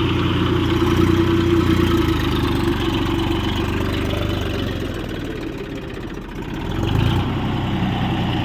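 Tractor engine running steadily. It eases off about five seconds in and picks up again about seven seconds in.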